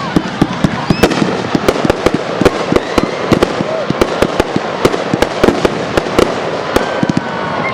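Fireworks display going off: a rapid, irregular run of sharp bangs and pops, several a second, over a steady background hiss.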